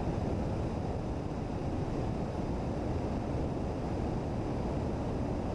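Steady wind rush buffeting the microphone on a moving motorcycle, a dense low rumble without any clear engine note.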